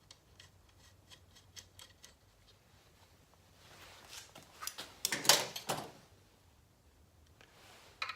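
Small metal tools and parts being handled: light scattered clicks at first, then a louder clatter and rattle of metal about four to six seconds in.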